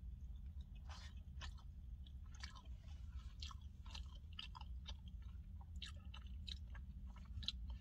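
A person chewing a mouthful of steak and rice close to the microphone: faint, irregular mouth clicks and smacks over a steady low hum.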